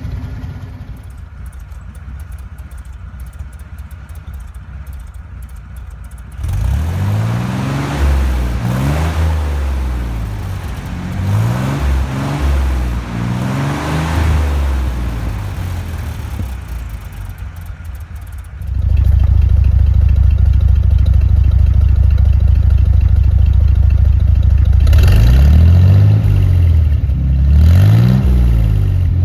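Jeep CJ5's Dauntless V6 exhaust through Flowmaster 2-inch mufflers and tailpipes. It idles for the first few seconds, is then revved in a series of rising and falling blips, is held loud at steady revs for several seconds, and gets a few more blips near the end.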